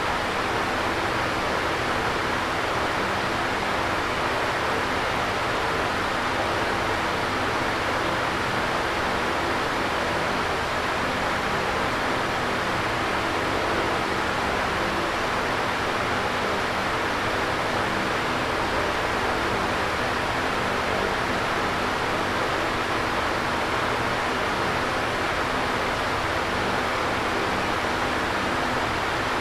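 Electric fan running steadily: an even whooshing air noise with a faint low hum under it.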